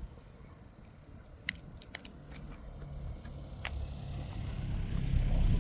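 Hollow balloon plant (Gomphocarpus physocarpus) seed pod being handled and broken open by hand, giving a few sharp crackling snaps, the loudest about a second and a half in, with a growing low rumble behind it toward the end.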